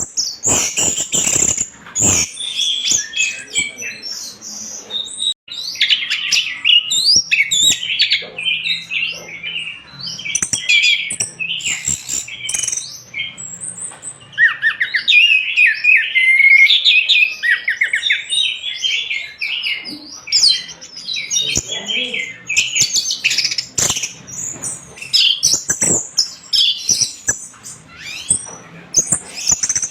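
Orange-headed thrush singing without a break: a fast, varied stream of high chirps, trills and whistled notes, close and loud, mixed with short sharp clicks.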